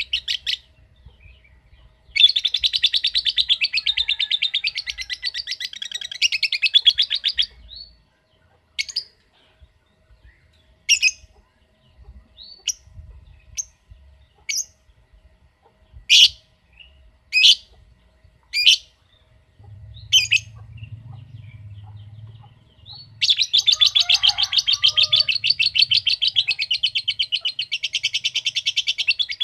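Lovebird giving long runs of very rapid, ticking chatter, one lasting about five seconds near the start and another starting about two-thirds of the way through, with a dozen single sharp chirps between them. This fast typewriter-like chatter is the 'ngetik' song that keepers play to prompt other lovebirds into long 'ngekek' bouts.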